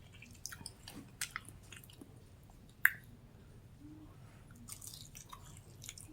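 Close-miked chewing of fried chicken wings, with scattered small wet clicks and crunches and one sharper crack about three seconds in.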